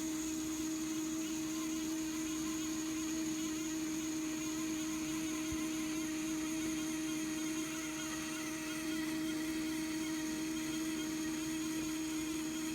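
Bunn Trifecta MB coffee brewer running at the start of its brew cycle: a steady electric hum holding one constant pitch, with a faint high whine above it.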